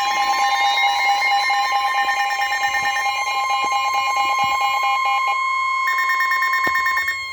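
NOAA Weather Radio warning alarm tone: a loud, steady single pitch near 1050 Hz that signals a warning message is about to follow. A second, pulsing tone sounds underneath it, drops out about five seconds in and briefly returns near the end.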